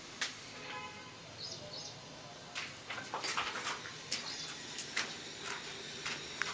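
Birds chirping in short high pairs, over irregular sharp clicks and knocks from about halfway through.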